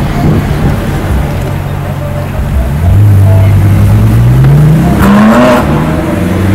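Ferrari 458 Spider's 4.5-litre V8 accelerating, heard from a following car: about three seconds in it gets louder and the engine note climbs steadily in pitch for a couple of seconds.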